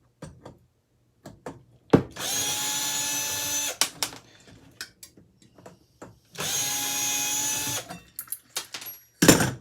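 A power drill runs in two bursts of about a second and a half each as a part is taken off a ceiling fan. Small clicks and handling knocks come between the bursts, and there is one loud knock near the end.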